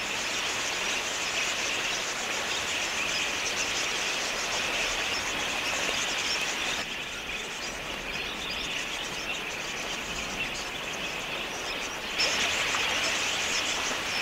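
Large flock of budgerigars chattering, a dense continuous high twittering. It thins from about seven seconds in and comes back fuller near twelve seconds.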